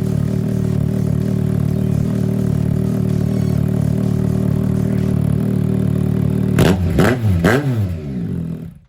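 2025 Yamaha MT-09's inline-three engine through a Mivv full exhaust, idling steadily, then blipped in three quick revs about seven seconds in before dropping back to idle.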